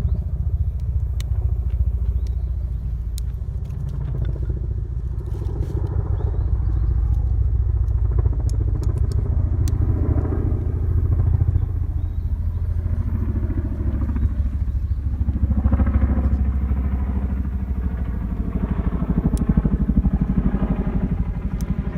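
A small kindling fire of dry leaves and wood crackling, with scattered sharp pops, mostly in the first half. Underneath runs a loud, steady low rumble.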